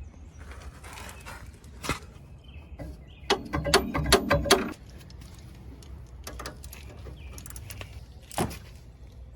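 A series of knocks and clicks: a single sharp knock, then a rapid run of about a dozen knocks lasting about a second and a half near the middle, and another single sharp knock near the end.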